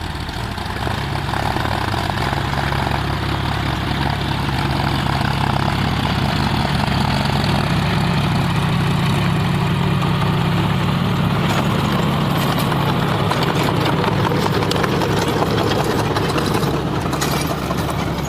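John Deere 5050 D tractor's three-cylinder diesel engine running steadily; it gets louder over the first couple of seconds, then holds.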